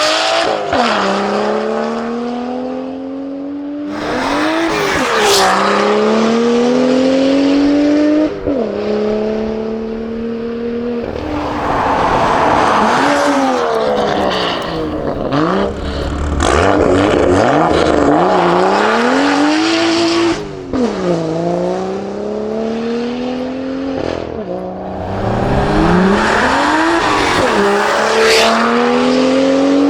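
BMW F87 M2's turbocharged inline-six running through a loud aftermarket valved turbo-back exhaust (Armytrix, valves open) on repeated hard acceleration runs. The engine note climbs and drops sharply at each upshift, and it rises and falls as the car passes by.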